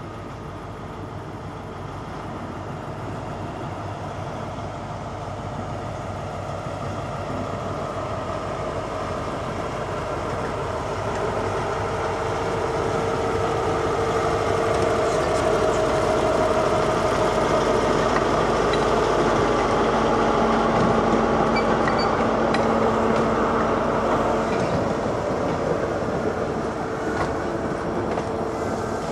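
A British Rail Class 43 HST power car's diesel engine running as the train approaches and passes, growing steadily louder to a peak about two-thirds through, followed by the coaches rolling past on the rails.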